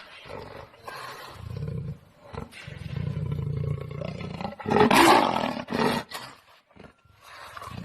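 A large animal growling in low rumbles, then giving one loud roar about five seconds in.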